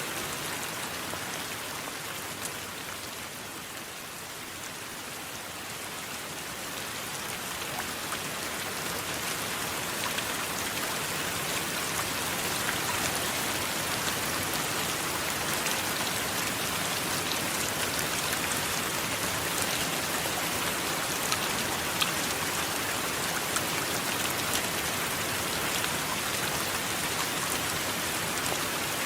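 Steady rain: a dense, even hiss with scattered sharp ticks of single drops hitting a surface. It eases slightly a few seconds in, then swells back up.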